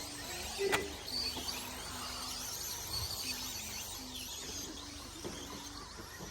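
Electric 1/10-scale short course RC trucks racing around a dirt track, their motors whining in wavering, rising and falling pitches. There is a sharp click about a second in.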